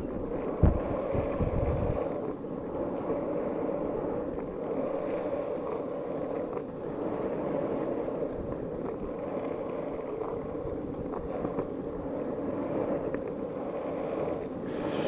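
Strong wind blowing steadily, with gusts buffeting the microphone in low thumps about a second in.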